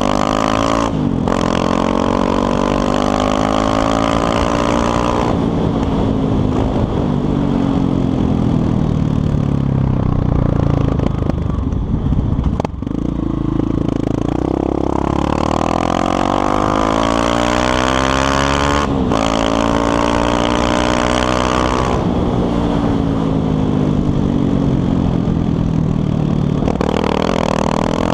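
Yamaha Lander 250's single-cylinder four-stroke engine running under way, its pitch climbing and falling again and again as the motorcycle accelerates and shifts gear, with short breaks in the note about a second in and again past the middle.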